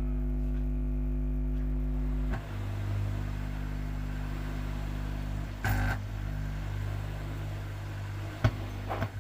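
Loud mains hum from the speaker of a homemade 3773 amplifier board with the volume at zero. The hum shifts in tone about two seconds in, with a few short clicks later. The builder blames the transformer wiring feeding the board too high a voltage.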